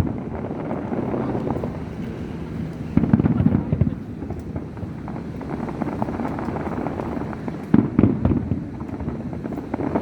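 Aerial fireworks display: a continuous rumble of bangs and crackling, with louder clusters of rapid bursts about three seconds in and again near eight seconds.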